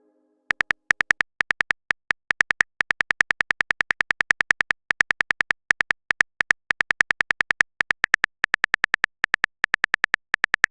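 Chat typing sound effect: rapid, very short clicky beeps, about seven a second, in runs with brief pauses.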